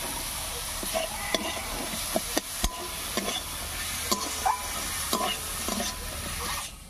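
Green peas and slit green chillies sizzling in hot oil with an onion-tomato masala in a kadai, frying in the spices, while a metal spatula stirs them with scattered scrapes and clicks against the pan.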